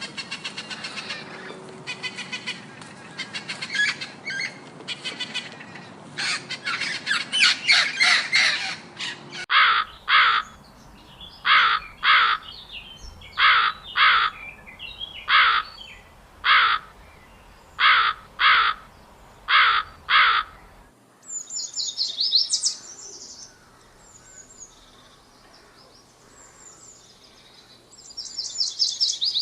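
Bird calls in three successive recordings. First a dense run of chirping from several birds, then from about ten seconds in a series of loud calls, often in pairs, roughly one every second or so, and in the last third thin high-pitched chirps.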